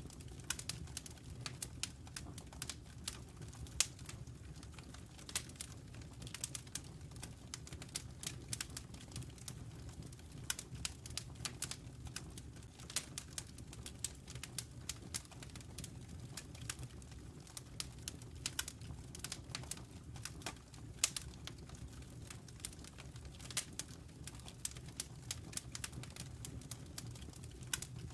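Wood fire burning in a fireplace: burning logs crackling with irregular sharp pops and snaps, several a second, over a steady low rumble of the flames.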